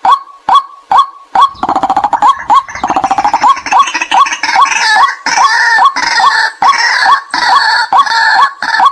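White-breasted waterhen calls played as a lure: short 'kwak' notes repeat evenly about three times a second. From about a second and a half in, a louder, rapid stuttering joins and turns into higher-pitched chattering until near the end.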